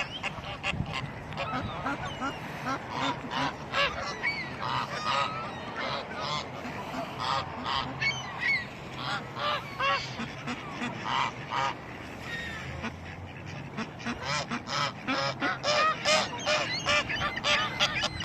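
A flock of gulls and ducks calling over one another as they crowd in to be fed bread: a constant stream of short, overlapping cries and squawks.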